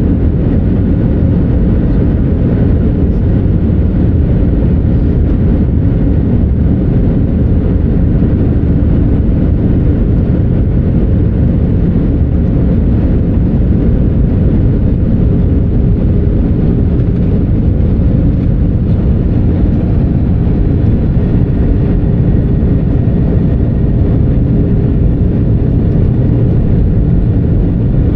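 Steady engine and airflow rumble inside the cabin of an Airbus A319-100 airliner, with a few faint steady engine tones over a deep, even noise.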